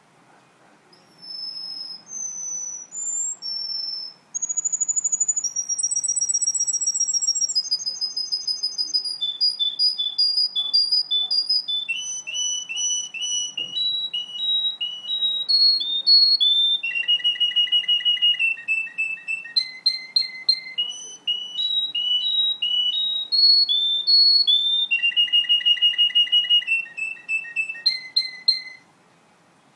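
Russian canary singing one long song of rapid trills. Each trill is held at one pitch for a second or two, then jumps to another, high or lower. The song begins with a few short phrases and then runs without a break until it stops just before the end.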